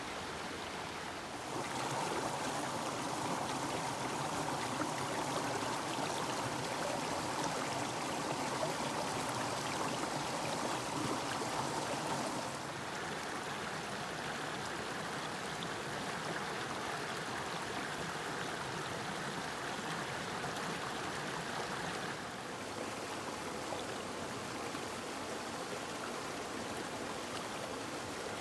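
Rain-swollen woodland brook rushing over small waterfalls and rapids, a steady full rush of water. It steps up in loudness about a second and a half in, then shifts to a somewhat quieter, different rush twice later on.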